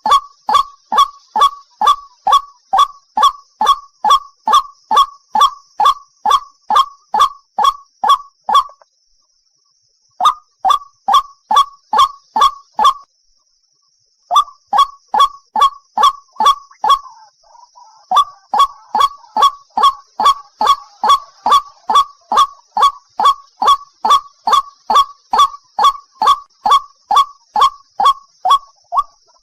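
White-breasted waterhen giving its ruak-ruak call: a loud, monotonous series of harsh honking notes at about three a second, breaking off briefly twice before carrying on.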